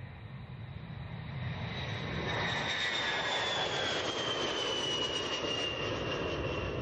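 B-52 Stratofortress jet engines as the bomber flies past. The sound grows louder over the first few seconds, and a high turbine whine drops in pitch as it passes.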